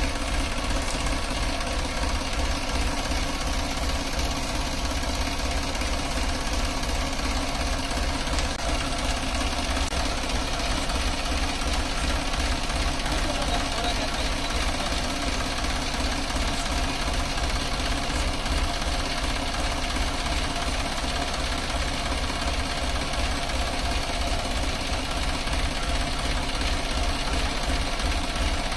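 Massey Ferguson 5245 DI tractor's three-cylinder diesel engine running at a steady speed, with a fast, even low clatter and no revving.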